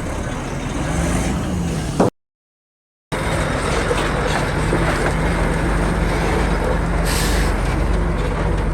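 Heavy diesel engine of earthmoving machinery running with a steady low drone. The sound cuts out completely for about a second, about two seconds in, then the engine noise resumes.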